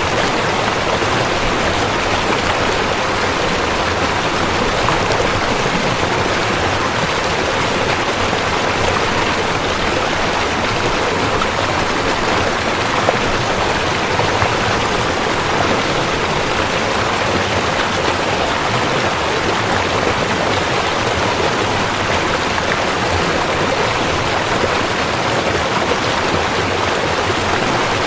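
Rushing river water: a steady, unbroken rush with no changes.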